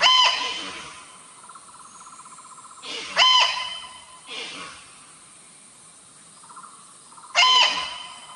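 A bird calling: a short, sharp, pitched call repeated three times about four seconds apart, each answered by a softer, rougher call.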